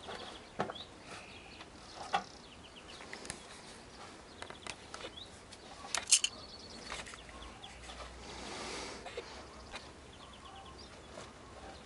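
Birds chirping in short high calls and trills, with a few sharp clicks, the loudest pair about six seconds in.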